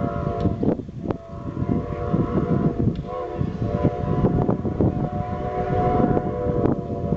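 Steam locomotive whistle blowing a long blast of several tones sounding together, with a short break about a second in, over the noise of the running locomotive and train.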